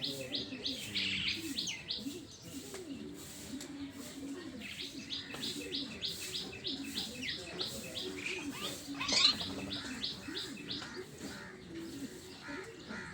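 Small birds chirping in quick runs of repeated high calls, with low cooing underneath and one louder, sharper call about nine seconds in.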